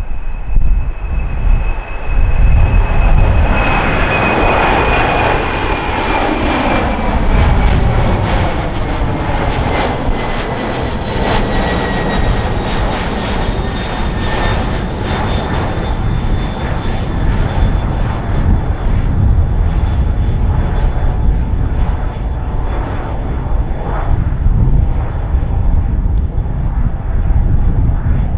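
Boeing 767-300 freighter's twin turbofan engines at takeoff power, a heavy steady roar with a high whine that slowly falls in pitch through the first half as the jet passes by.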